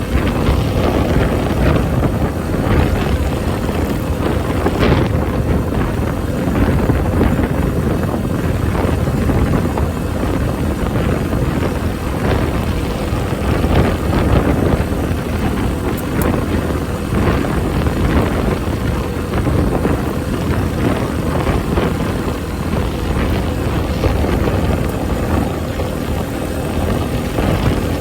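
Honda Benly CS90's small single-cylinder four-stroke engine running steadily while riding, under heavy wind buffeting on the microphone.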